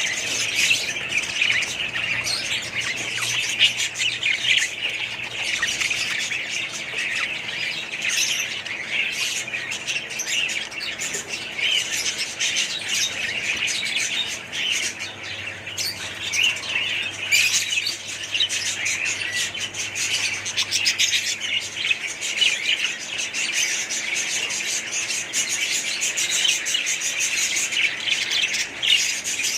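Many small birds chirping and squawking at once, a dense, continuous chatter with no pauses.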